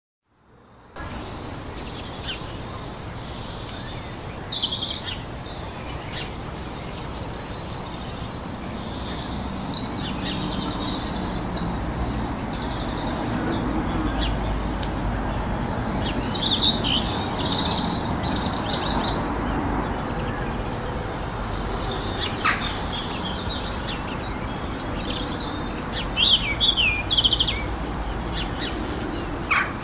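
Several small birds chirping and trilling in quick overlapping phrases over a steady low background rumble; it all fades in about a second in.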